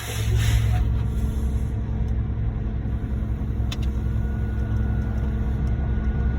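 Heavy diesel engine of a concrete truck running steadily, with a faint steady whine joining about four seconds in.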